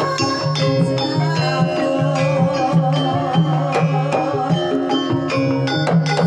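Javanese gamelan music. Metallophones ring sustained notes and hand drums keep a steady beat, while a wavering melodic line runs over them.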